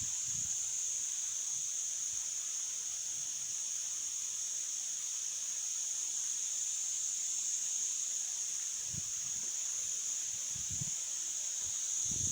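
Insects, cicadas or crickets, calling in a continuous, steady high-pitched chorus. A few soft low thumps come in the second half.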